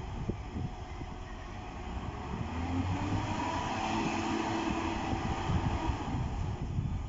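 A train rumbling, growing louder, with a steady motor hum coming in about two and a half seconds in.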